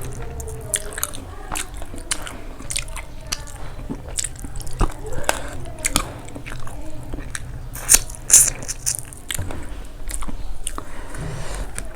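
Close-up eating sounds: a person chewing and biting into fried pork and rice, with wet smacking and crunchy clicks, loudest about eight seconds in.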